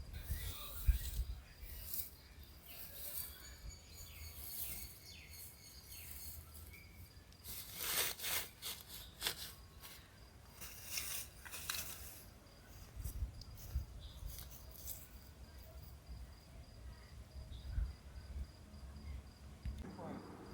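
Insects trilling steadily, a thin high continuous tone, with scattered crackles and rustles over it that are heaviest in the middle.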